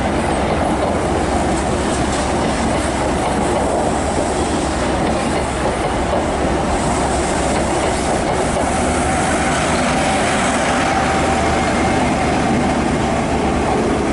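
An InterCity 125 high-speed train (HST) rolling past at low speed, its coaches' wheels clattering steadily over the rail joints, with the rear power car coming through.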